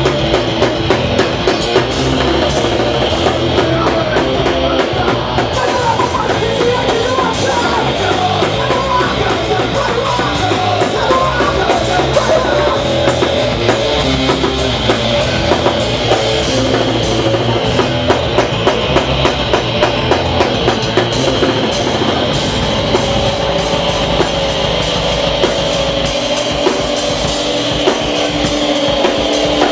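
Hardcore punk band playing live at full volume, with a fast, busy drum kit under the guitars and bass.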